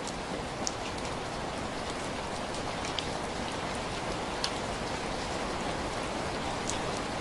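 Steady rain: an even hiss with a few sharp ticks scattered through it.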